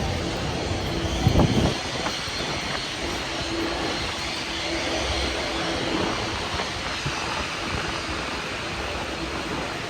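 Steady airliner noise with a faint steady hum, broken about a second and a half in by a short, loud, deep thump.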